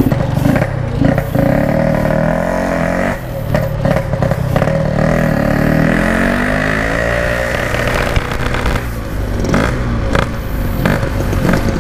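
Yamaha RX-King 135 cc single-cylinder two-stroke motorcycle engine revving through a Packing Power 'standart belek' exhaust, its pitch climbing and dropping back several times as the bike accelerates through the gears.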